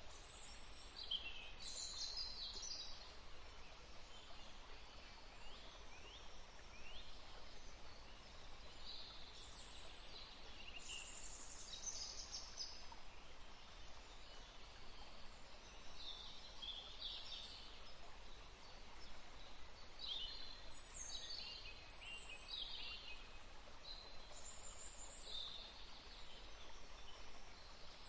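Several small songbirds chirping and twittering in short quick phrases over a faint steady outdoor hiss.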